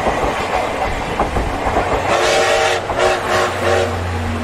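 A passenger train's coaches rolling past close by with a steady clatter of wheels on the rails. About halfway through come several short sounds, each held at one pitch, and a low steady hum comes in near the end.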